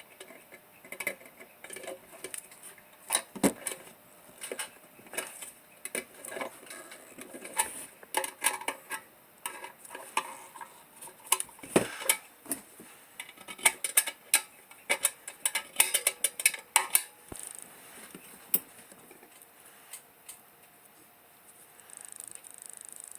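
Irregular light metallic clicks and clinks of metal lantern parts being handled and fitted, with a busier run of clinks in the second half. A steady hiss starts near the end.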